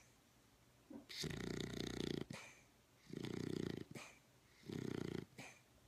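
A dog snoring in very deep sleep: three snores, each under a second long, about every one and a half to two seconds, with quieter breathing between.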